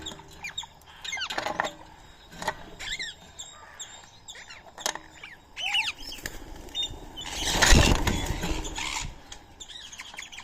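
Birds at a feeding spot giving short chirps and calls scattered throughout, with a loud rush of noise from about seven to nine seconds in.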